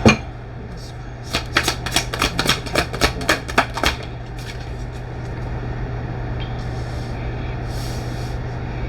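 Tarot cards being shuffled and handled: a knock, then a quick run of about a dozen snapping clicks over some two and a half seconds, followed by a low steady hum.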